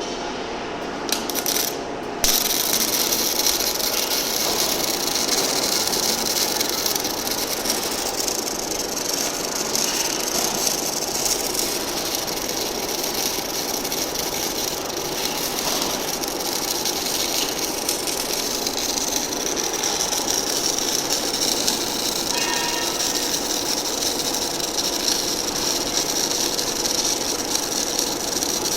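MIG welding arc from an ESAB Origo MIG C340 PRO welding set, crackling and hissing steadily. It strikes about two seconds in, after a few short clicks.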